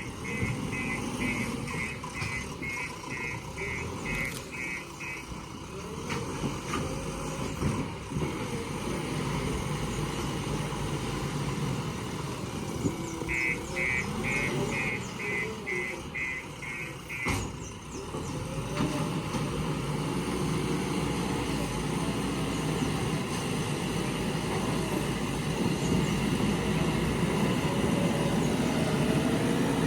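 Diesel engines of a JCB loader and a tractor running, the engine note rising and falling and growing louder in the second half. A reversing alarm beeps about twice a second for the first five seconds and again for about four seconds in the middle.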